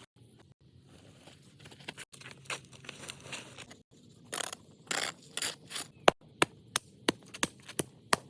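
Scraping strokes, then a quick run of sharp knocks, about three a second, near the end.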